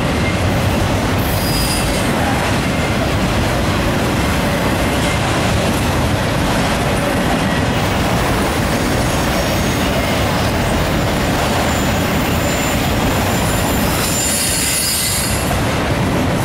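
Autorack freight cars rolling past at close range: a loud, steady rumble of steel wheels on rail, with brief high-pitched wheel squeals about a second and a half in and again near the end.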